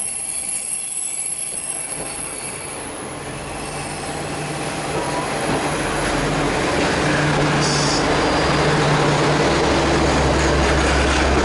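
The Aru Ressha diesel railcar pulling into a station platform and passing close by: wheels running on the rails, growing louder as the cars go past. The engine's low hum builds in the second half, and there is a brief high squeal about eight seconds in.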